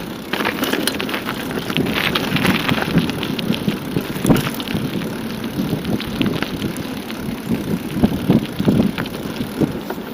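Bicycle being ridden: continuous tyre and road noise with frequent small clicks and rattles from the bike over bumps, and wind on the microphone.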